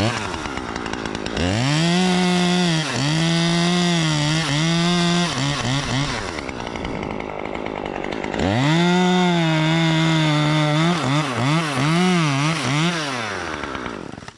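Two-stroke chainsaw running. It revs to full throttle about a second and a half in and holds there, blips and drops back to idle, then revs up again near the middle and is blipped up and down several times before it drops off at the end.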